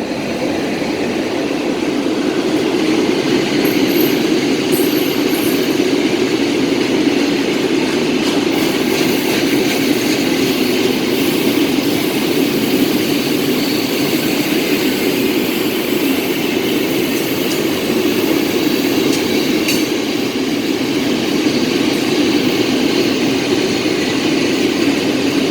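Freight train giving a loud, steady low rumble, with a few faint high squeaks and clinks.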